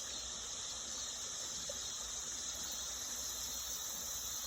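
Steady chorus of crickets and other insects, a high continuous buzzing that neither rises nor falls.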